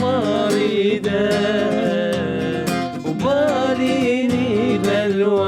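A man singing a wavering melody over acoustic guitar.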